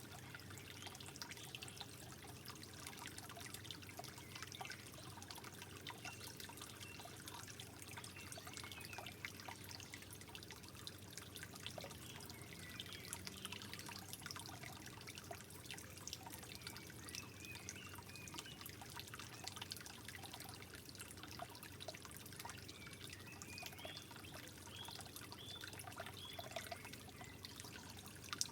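Soft, steady trickling water, with many small bubbling droplet plinks over a gentle flowing wash.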